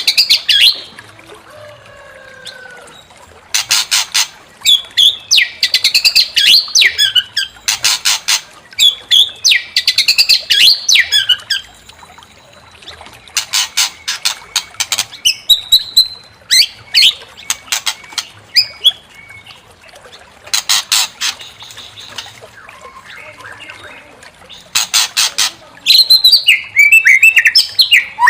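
White-rumped shama (murai batu) singing. Bursts of harsh, rapid rattling chatter alternate with quick whistled phrases, broken by short pauses.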